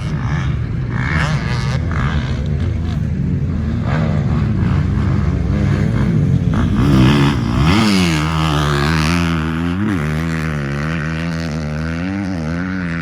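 KTM 250 motocross bike engine running hard while ridden round a track. Its pitch rises and falls with the throttle, with sharp dips and climbs about eight and ten seconds in.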